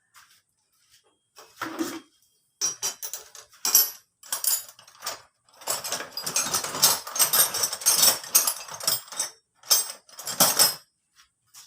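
Metal tools and engine parts clinking and clattering as they are handled, in short bursts with a longer run of rattling in the middle.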